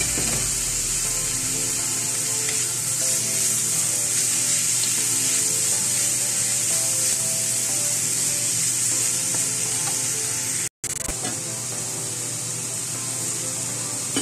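Bamboo shoots and vegetables with ground pork sizzling in a hot wok as they are stir-fried with a spatula. The sizzle cuts out for a moment about three-quarters of the way through, then carries on a little quieter.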